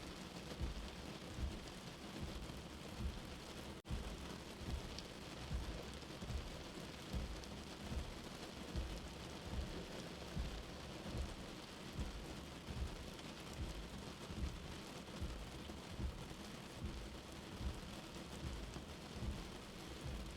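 Steady rain heard from indoors, an even hiss of falling drops, with a soft low heartbeat thumping regularly about once every 0.8 seconds underneath.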